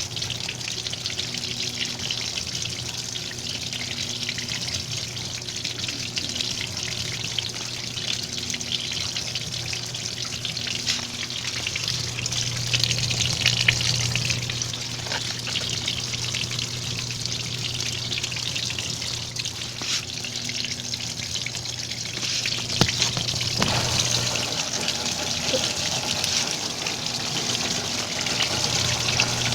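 Washing machine filling with water: a steady rush of running water over a low, steady hum.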